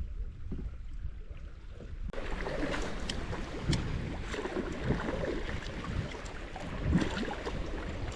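Wind buffeting the microphone and river water splashing around a canoe, fuller and louder from about two seconds in.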